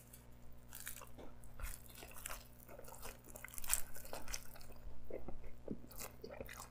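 A person biting and chewing a slice of pepperoni pizza with a crisp, charred crust: irregular crunches, loudest in the second half.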